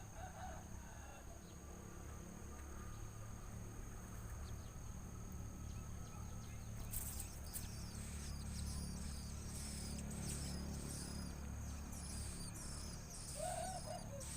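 High, thin cheeping of nestling birds, short chirps repeating about twice a second from about halfway through, over the steady high drone of insects.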